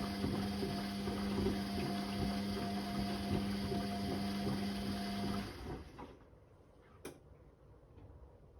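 Whirlpool Indiana 1400 washing machine's pump running with water, a steady hum that cuts off sharply about five and a half seconds in. A single click follows about a second and a half later.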